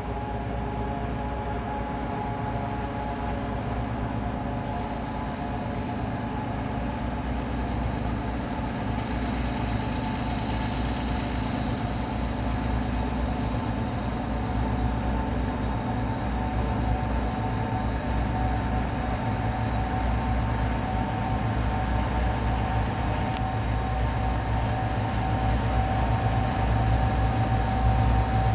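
Train running steadily: a low rumble with a thin high whine over it, slowly growing louder.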